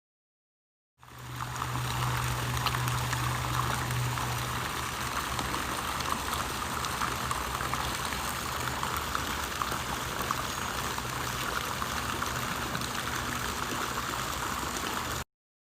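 Steady rushing noise of running water with a low steady hum beneath it. It starts about a second in and cuts off abruptly shortly before the end.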